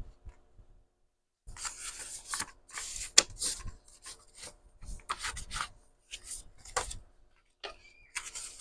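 Sheets of 100 gsm printed paper being handled and shuffled: irregular rustling and sliding of paper, starting after about a second and a half, with one sharper rustle about three seconds in.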